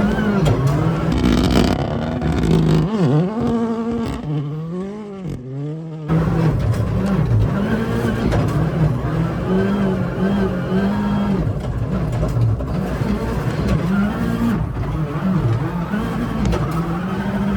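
Ford Fiesta ST rally car's engine being driven hard, the revs rising and falling again and again through gear changes. Around three to six seconds in the revs drop and it goes quieter, then it picks up sharply and keeps swinging up and down.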